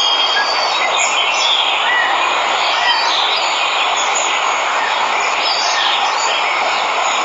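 Steady rush of a waterfall, with jungle birds chirping over it now and then.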